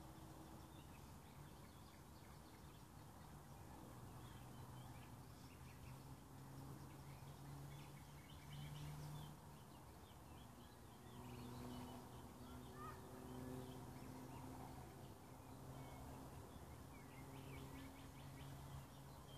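Faint waterside ambience: small birds chirping in the distance over a low, steady hum that swells and fades.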